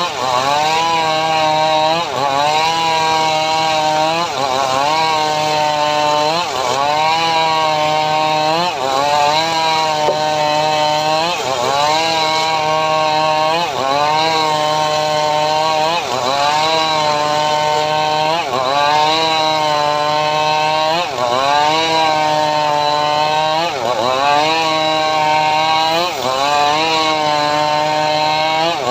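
Engine-driven homemade sawmill (gergaji srekel) running while cutting sengon wood, the engine note dipping sharply in pitch and recovering about every two seconds in an even rhythm.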